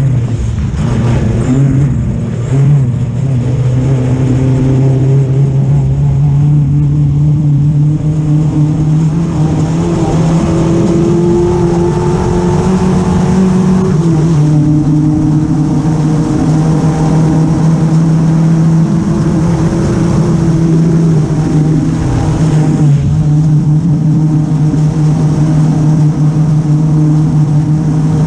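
Off-road racing buggy's engine running hard at speed on a dirt track, heard from on board. Its note holds steady, creeps slowly higher, drops a step about halfway through, then holds steady again.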